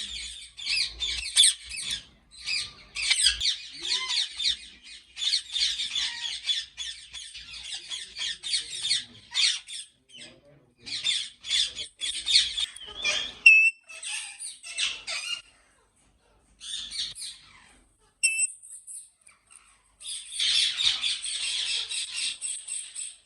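Many ringneck parakeets screeching and squawking together in harsh, overlapping calls, with brief lulls a little past the middle before the din picks up again near the end.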